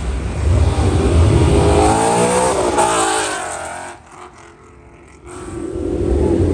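A car's engine revving hard as it pulls away, its pitch climbing and then falling as it passes and fades. Another car's engine comes up near the end.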